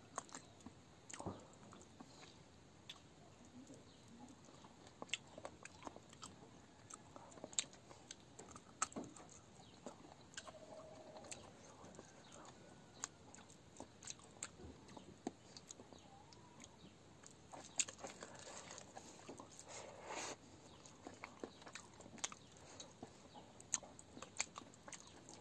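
Quiet close-up chewing of a mouthful of rice and curry, with scattered soft mouth clicks.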